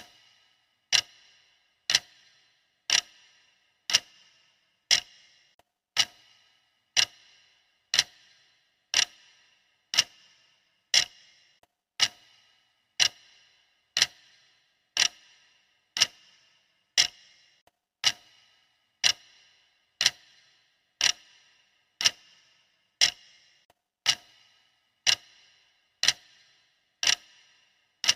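Steady clock ticking, one sharp tick per second, each with a brief ringing tail.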